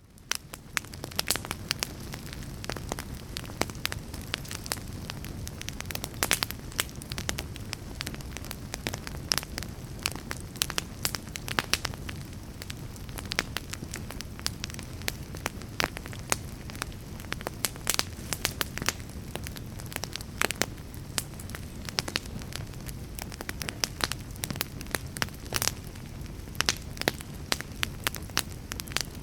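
Fire crackling: a steady low rumble of flames with frequent irregular sharp pops and snaps. It fades in at the very start.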